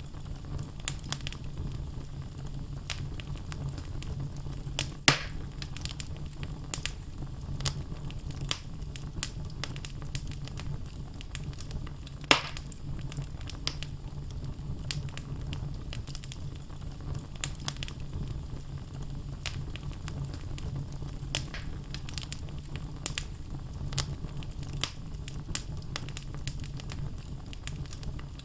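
Wood logs burning in a fireplace: a steady low rumble of the flames with frequent small crackles and two louder pops, about five and twelve seconds in.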